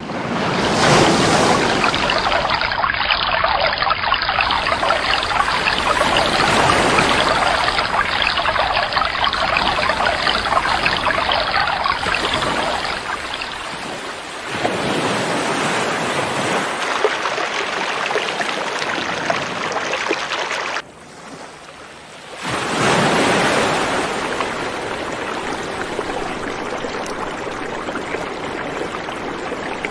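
Steady rushing water in several recordings joined together: the sound changes abruptly about 14 seconds in, drops away briefly around 21 seconds, then comes back.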